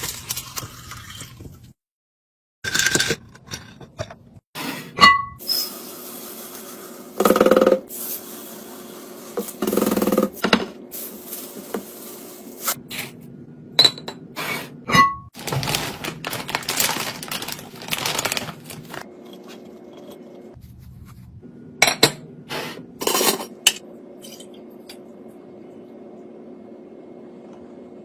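Containers being set down and moved about on fridge shelves: a run of knocks and clinks, a few of them glassy with a short ringing ping, over a low steady hum.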